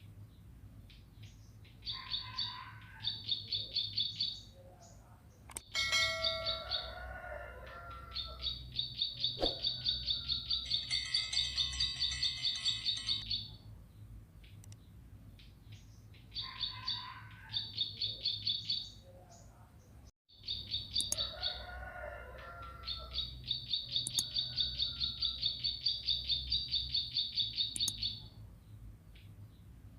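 Bar-winged prinia singing: trains of rapid, repeated high chirps a few seconds long, broken by short pauses.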